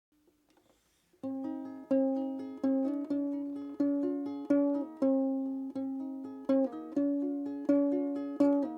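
Music on a plucked string instrument, ukulele-like, beginning about a second in: a steady run of picked notes, each struck sharply and left to ring.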